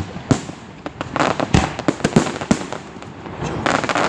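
Fireworks display: aerial shells bursting in quick succession, about five or six sharp bangs with crackling between them.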